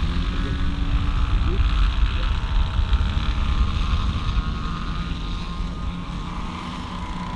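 Engine and propeller of a radio-controlled scale WW2 fighter model running steadily in flight, easing slightly in level, with wind rumbling on the microphone.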